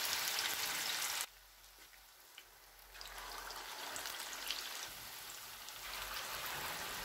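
Chicken seekh kebabs frying in hot oil in a pan: a steady sizzle with small crackles. It drops away sharply about a second in and builds back up a couple of seconds later.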